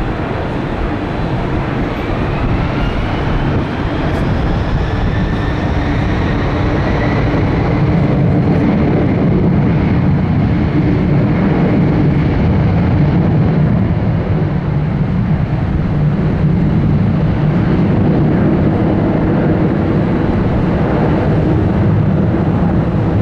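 Jet airliner engines running loud and close: a steady deep rumble that swells about a third of the way in, with a thin whine rising in pitch over the first few seconds.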